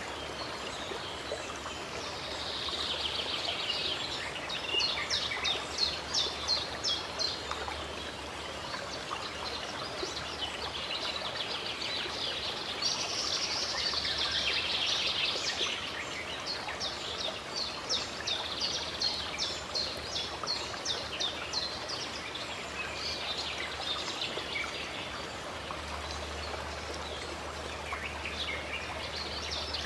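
Running water flowing steadily, with birds singing over it. One bird repeats a short sharp note about two to three times a second in runs, and there are bursts of denser chattering.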